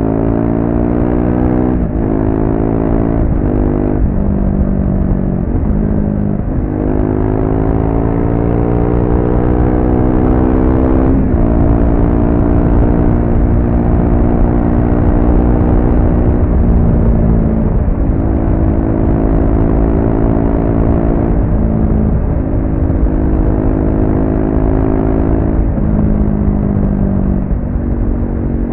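Triumph Speed 400's 398 cc single-cylinder engine, stock exhaust, pulling hard and shifting gears repeatedly. The pitch climbs in each gear and drops at each of about ten shifts.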